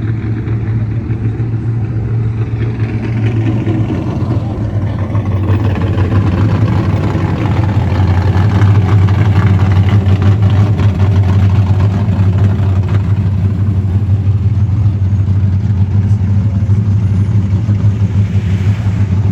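Car engines and exhausts rumbling as cruising cars roll slowly past, a deep steady note that grows louder about six seconds in and stays loud.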